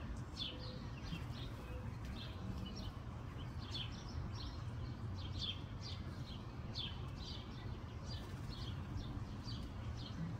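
Birds chirping in many short, high, down-slurred notes, a few each second, over a low steady rumble.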